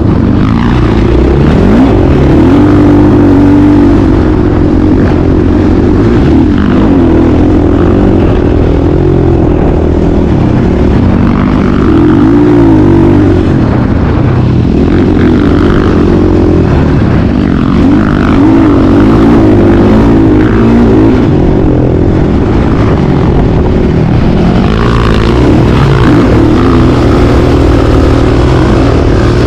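Motocross dirt-bike engine running loud and continuously, its pitch rising and falling again and again as the throttle is opened and closed.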